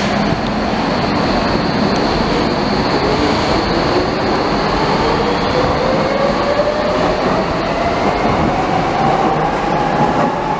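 Docklands Light Railway electric train pulling out of the station, its traction motors giving a steadily rising whine as it picks up speed, over the continuous rumble of the wheels on the rails.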